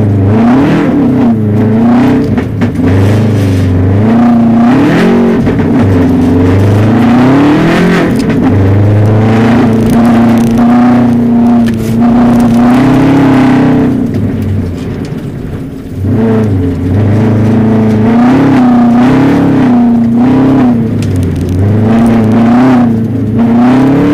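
Rally car's engine heard from inside the cabin, revving up and falling back again and again as it is driven, with a brief easing off the throttle a little past halfway.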